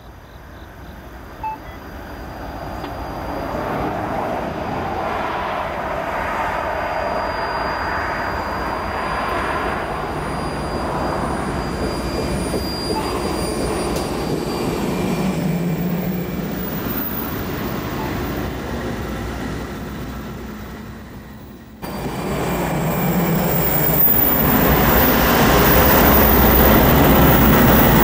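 A Norfolk Southern track geometry test train rolling slowly past, wheels running on the rails, building up over the first few seconds as the cars come by. After an abrupt cut late on, it comes back louder as the diesel locomotives pass.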